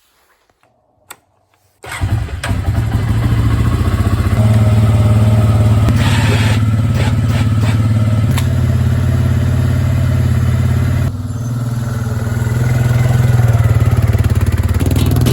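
Suzuki Eiger ATV's single-cylinder engine running, coming in abruptly about two seconds in after near silence and a single click, then holding steady, easing off briefly a little past eleven seconds and picking up again.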